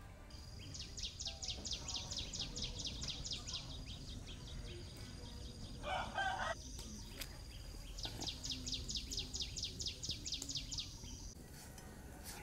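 Bird calls: a high, rapid trill of about seven notes a second, heard twice, and a short, lower call about six seconds in.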